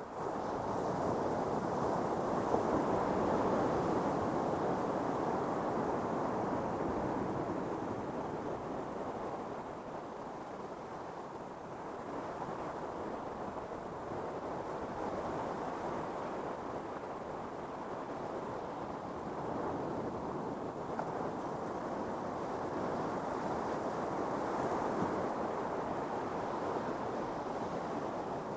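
Ocean surf washing onto a beach, a steady rush of noise that swells a couple of seconds in and again near the end as waves break.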